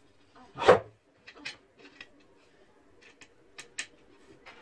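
A loud knock under a second in, followed by a string of lighter clicks and taps over a faint steady hum.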